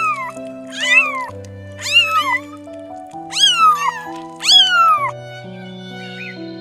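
Cat meowing repeatedly, about once a second, each meow rising then falling in pitch, over soft sustained background music; the meows stop about five seconds in.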